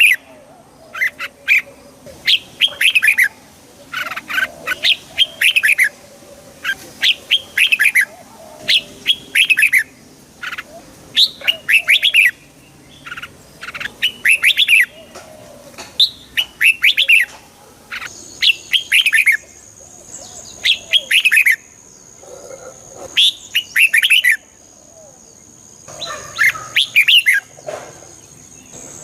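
Red-whiskered bulbul singing, short bright phrases of quick chirpy notes repeated every second or two. A thin steady high tone joins about two-thirds of the way through.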